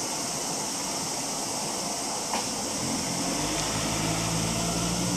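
Steady hiss of background noise, with a single click a little before the middle. About three seconds in, a low machine hum like an idling engine or air-conditioning unit joins it and keeps going.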